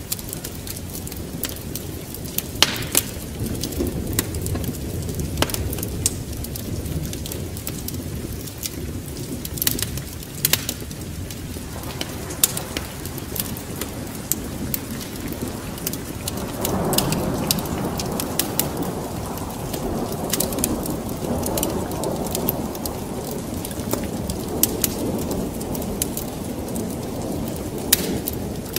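Wood fire crackling with scattered sharp pops over steady rain. A deep rumble of thunder swells about 17 seconds in and rolls on for several seconds.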